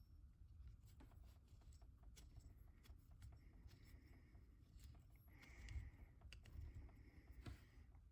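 Faint scattered light clicks and ticks of a valve spring compressor tool's metal parts being handled and threaded into the cylinder head.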